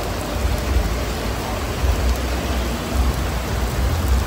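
Heavy rain falling on pavement: a steady, even hiss, with a fluctuating low rumble underneath.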